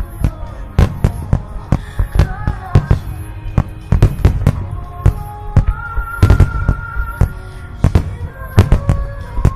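Fireworks going off in a rapid, irregular string of sharp bangs, about two or three a second, over a low rumble, with music playing underneath.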